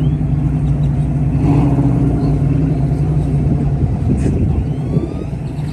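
A car engine idling with a steady, low rumble.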